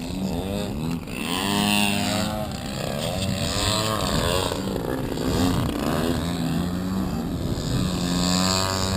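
Several radio-controlled model airplane engines running, their pitch repeatedly rising and falling as planes pass, over a steadier engine hum.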